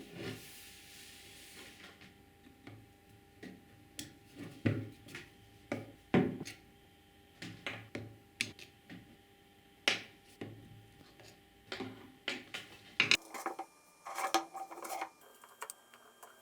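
Irregular clicks and knocks of small hard objects being handled, with a brief hiss near the start.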